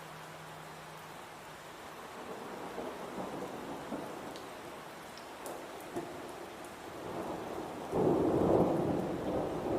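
Steady rain with thunder rumbling in the background, building a few seconds in; a much louder burst of thunder breaks in suddenly near the end.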